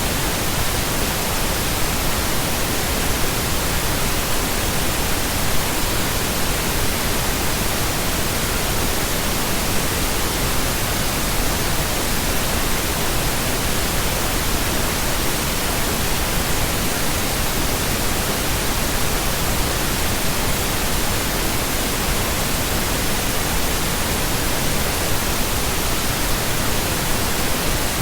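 Synthetic pink noise: a steady, unchanging hiss spread evenly across the whole range, with no events, tones or rhythm.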